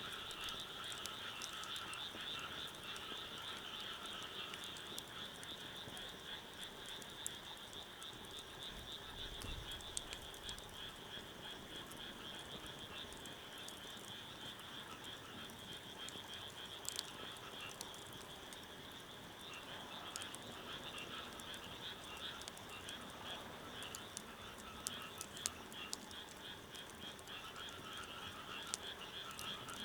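A steady chorus of frogs croaking, a dense rapid pulsing. Scattered sharp crackles from a burning wood fire sound over it.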